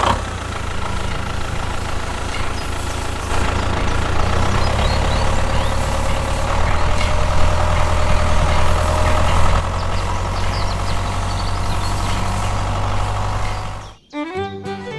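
Tractor engine running steadily with a low hum, cutting off abruptly about fourteen seconds in, where music takes over.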